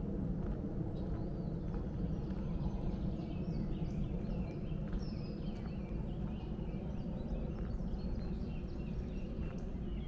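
Several woodland birds singing and calling, short chirps and whistled phrases overlapping throughout, over a steady low rumble with soft footsteps on a trail.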